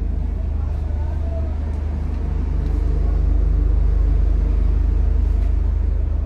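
Steady low mechanical drone inside a stationary passenger train coach.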